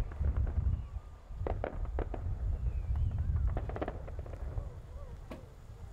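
Aerial fireworks exploding: a continuous deep rumble of booms with several sharp cracks, easing off after about four seconds.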